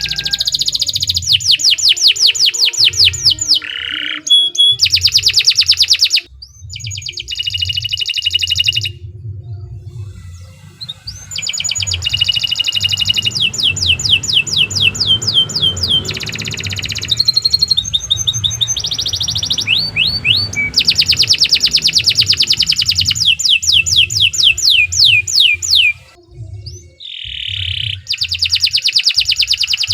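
Domestic canary singing a long song of fast trills, each a rapid run of repeated sweeping notes, with the phrases changing pitch and broken by brief pauses.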